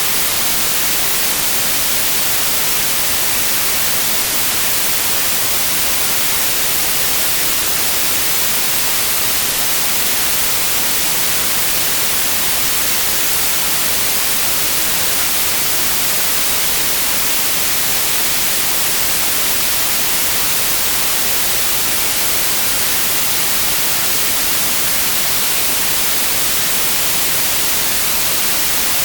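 Steady white noise: an even hiss across all pitches, unchanging throughout.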